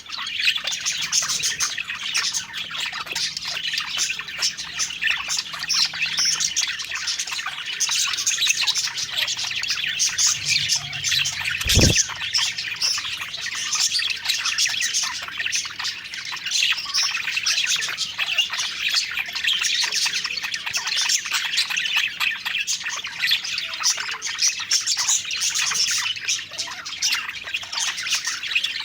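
A flock of budgerigars chirping and warbling continuously in dense, overlapping chatter, with one sharp knock near the middle.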